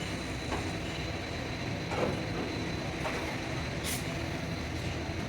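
A vehicle engine running steadily with a low rumble. There is a short hiss about four seconds in and a few faint knocks.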